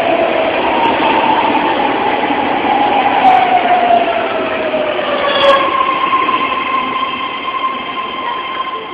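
BART rapid-transit train running, with a steady rumble. A whine falls slowly in pitch for about five seconds, then gives way to a steady, higher-pitched tone.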